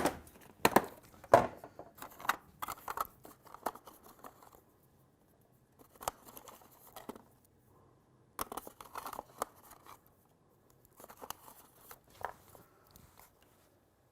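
Small parts being handled and fitted by hand: scattered clicks, taps and rustles in short clusters, broken by two stretches of dead silence.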